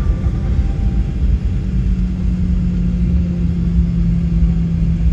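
Cabin noise of a Boeing 737-800 taxiing: a steady low rumble from its CFM56 engines and rolling gear. A steady engine hum sets in about two seconds in.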